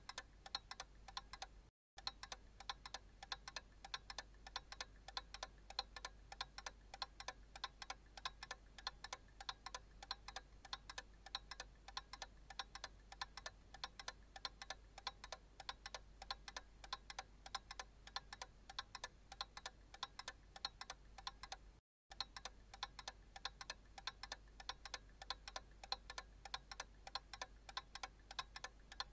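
Analog clock ticking in a steady, even rhythm, each tick a sharp click. The ticking drops out for an instant twice.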